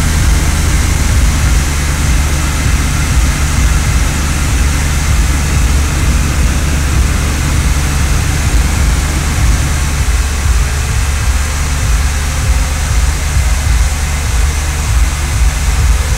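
BMW 650i's V8 engine idling steadily, a continuous low hum.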